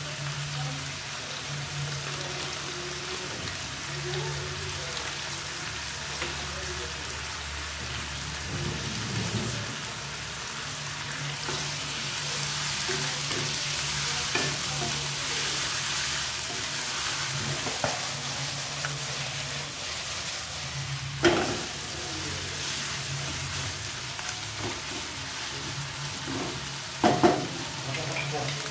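Chicken pieces sizzling as they fry in oil in a wok while a wooden spatula stirs them, the hiss fuller in the middle. A few sharp knocks of the spatula on the pan come in the last third.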